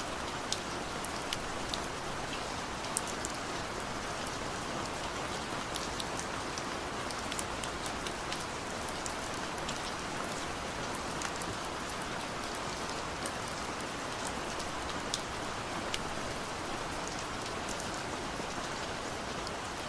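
Steady rain falling, a continuous patter with many distinct drops ticking sharply on a hard surface.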